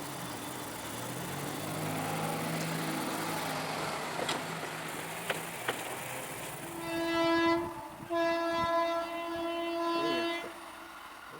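Indian Railways train at a level crossing: a low steady rumble with a few sharp clicks, then two horn blasts about seven seconds in, a short one followed by a longer one of about two seconds.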